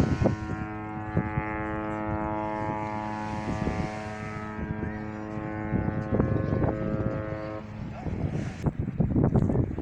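A ship's horn sounding one long steady blast of about seven and a half seconds, then stopping. Voices are heard near the end.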